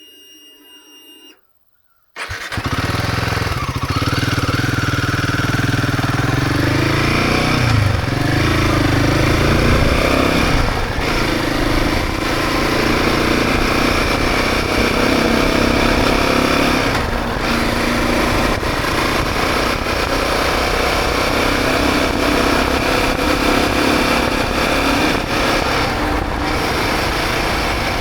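Motorcycle engine running while riding, with wind noise over the microphone. The sound cuts in about two seconds in, and the engine note rises over the next few seconds as the bike accelerates, then holds steady.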